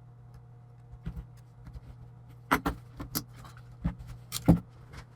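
A series of sharp clicks and knocks from the Chromebook and its plastic parts being handled during the hinge repair, growing louder and more frequent in the second half, over a low steady hum.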